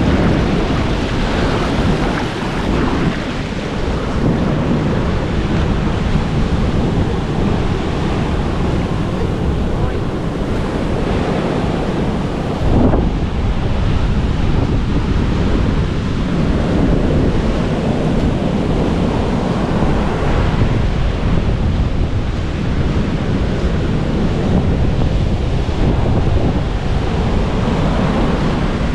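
Ocean waves breaking and washing, swelling and easing, with wind buffeting the microphone. A single short knock about halfway through.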